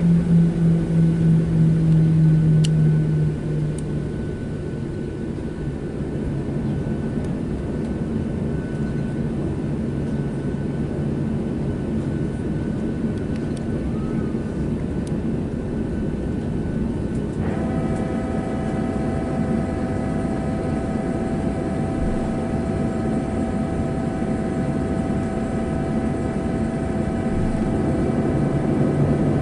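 Cabin noise of a Boeing 737-700 taxiing after landing: a steady rushing drone with a low hum. The hum is strongest in the first few seconds, and a set of steady whining tones joins about two-thirds of the way through.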